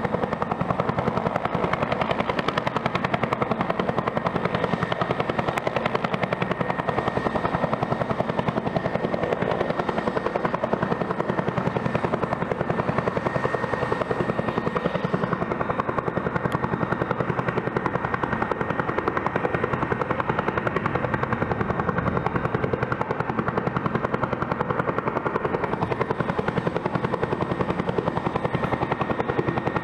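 Twin-turbine Bell helicopter running steadily, rotor and engines at a constant pace, with a thin steady high turbine whine over the rotor noise.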